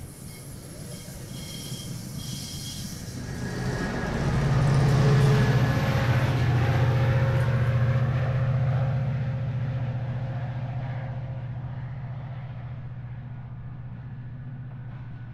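Metrolink commuter train passing and pulling away, its diesel locomotive working under load. The engine's low drone, with wheel and rolling noise, is loudest about five seconds in and then slowly fades as the train recedes.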